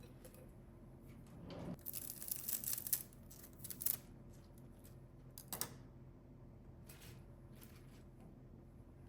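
Packaging being torn open and crinkled: a rustling tear of about a second and a half, then two short, sharp crinkles.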